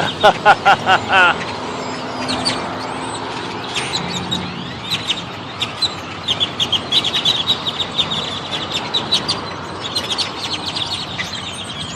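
A large flock of birds chattering, with many short high chirps overlapping over a steady background hiss. At the start comes a run of loud repeated calls, several a second, and the chirping thickens about halfway through.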